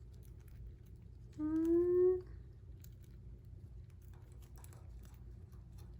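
Faint, irregular small clicks of a budgie pecking at and cracking seeds. About a second and a half in there is a short hum from a person, a single slightly rising tone lasting under a second.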